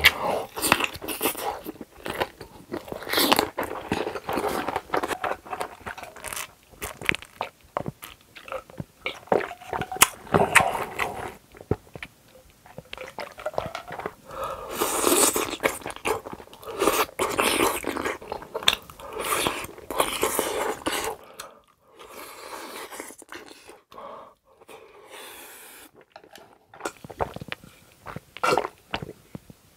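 Close-miked eating sounds of a person biting into and chewing a kielbasa sausage: a run of sharp bites and chewing noises with short pauses, quieter for a few seconds past the middle. Drinking sounds near the end.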